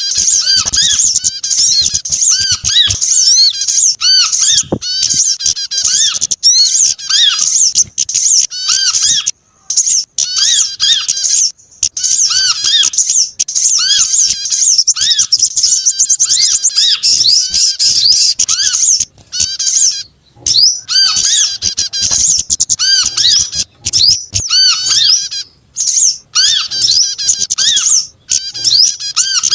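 Bird-lure recording of several small songbirds calling together: a dense, continuous chatter of rapid high chirps, twitters and squeaks, broken by short pauses every few seconds.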